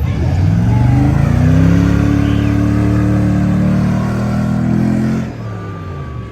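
A vehicle engine revving up hard, held at high revs for about five seconds, then dropping off.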